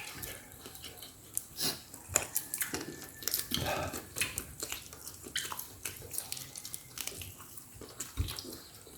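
Wet chewing and lip-smacking of a person eating roast chicken (lechon manok): a run of short, irregular clicks and smacks.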